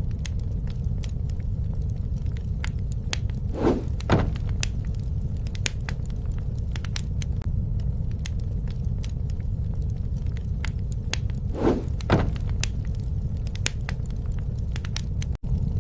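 Campfire burning: a steady low rumble of flames under frequent sharp crackles and pops from the burning wood. Two louder, brief double swells come about four seconds in and again about twelve seconds in.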